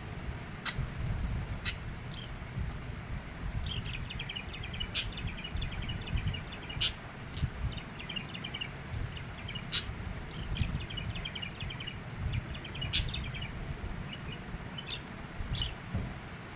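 Budgerigar chirping: sharp, loud single chirps every few seconds over long runs of quick chattering warble notes. A low rumble runs underneath.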